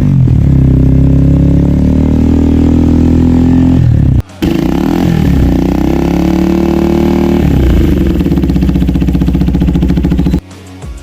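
KTM Duke 390's single-cylinder engine through an aftermarket Akrapovic exhaust, running loud and being revved up and down. It cuts out briefly about four seconds in, and gives way to music near the end.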